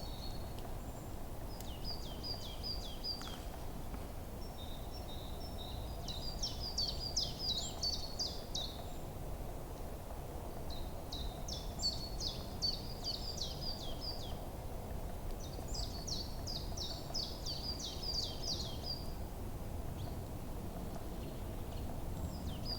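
A songbird singing in a forest, in short bursts of rapid, repeated high notes, each phrase lasting two to three seconds and coming back about every four to five seconds. Under it is a steady low rushing background.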